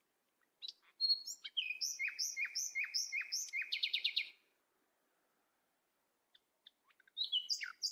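A songbird singing: a run of about six quick down-slurred whistles ending in a fast trill, then, after a pause of a few seconds, another burst of song near the end.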